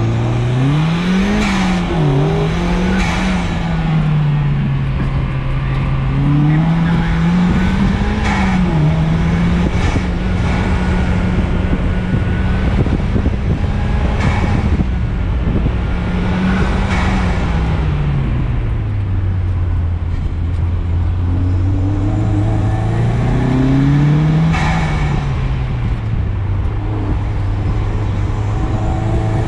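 Car engine driven hard on an autocross course, accelerating from near standstill. Its pitch climbs and drops back sharply a few times early on as it shifts up, holds steady at speed, falls away under braking about halfway through, then climbs again.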